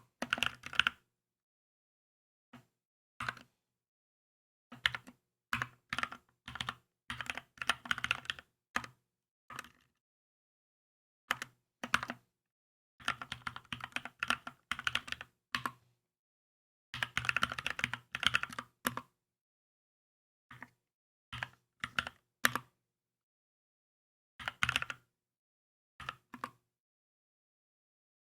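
Typing on a Keychron K2 mechanical keyboard: quick runs of keystrokes broken by short pauses, with the longest and densest runs in the middle of the stretch.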